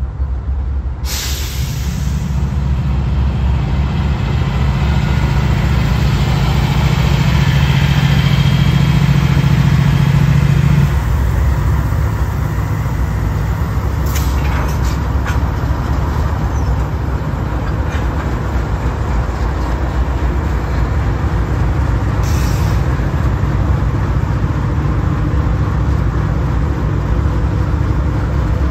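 Train passing close by: a diesel locomotive's engine drones loudly for about the first ten seconds, then the drone gives way to the steady rumble of rolling cars, with a couple of brief sharp metallic sounds.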